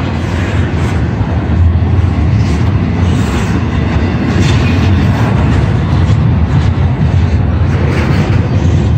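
Freight train rolling through a grade crossing: a steady, loud low rumble of the cars on the rails.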